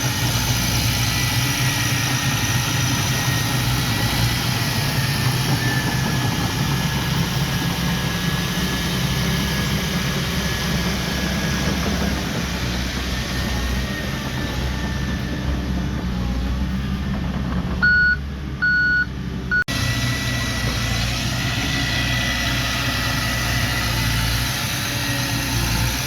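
Diesel engine of heavy earthmoving machinery running steadily, with a thin high whine above the rumble. Near the end a reversing alarm gives three short beeps, and the engine sound changes abruptly just after.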